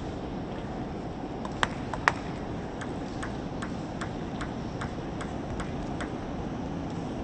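A table tennis ball is bouncing repeatedly. Two sharper clicks come about a second and a half in, then a run of light, even ticks at about two and a half a second for some three seconds, over a steady hall hum.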